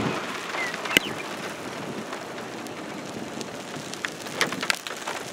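Steady hiss of light rain with scattered sharp hits of the first hailstones: one loud hit about a second in and a quick cluster of smaller ones near the end.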